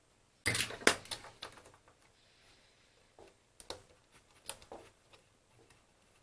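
Clatter and clicks of small hard plastic and metal parts being handled on a workbench: a burst of clatter about half a second in, then a few separate sharper clicks.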